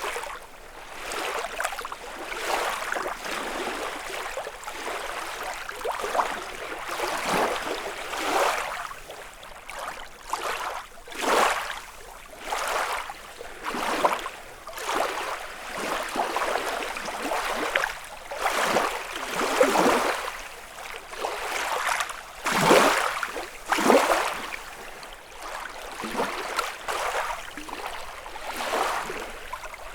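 Small lake waves lapping and splashing against the shore in an irregular run of soft wash-ins, about one every second or two. A few are louder than the rest, the strongest about 22 to 24 seconds in.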